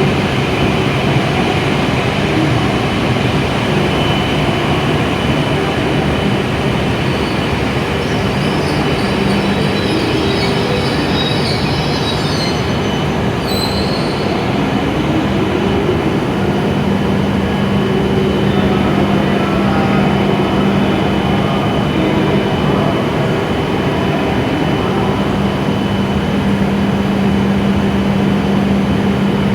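E7 series Shinkansen train pulling in and braking to a stop, with a high brake squeal in the middle that cuts off as it halts. After that the stopped train gives a steady hum.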